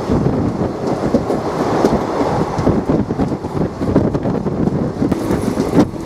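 Passenger train running along the track: a steady rumble with constant rattling from the wheels and coach.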